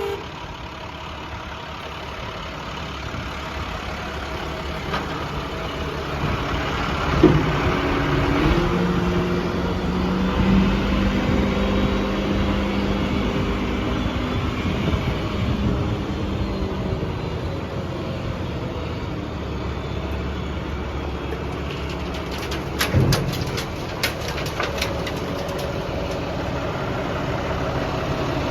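International WorkStar 7400 dump truck's MaxxForce diesel engine running; it picks up and gets louder about seven to ten seconds in. There is a sharp knock about seven seconds in and a cluster of clicks and knocks around twenty-three seconds.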